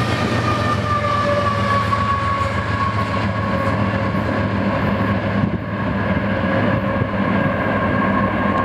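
Freight train of boxcars rolling past and drawing away: a steady rumble and clatter of wheels on rail, with a thin high tone that slowly falls in pitch. A low steady hum runs under it from the trailing diesel locomotive.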